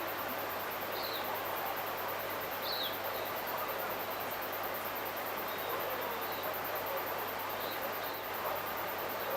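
A few short, high bird chirps scattered over a steady rushing background noise.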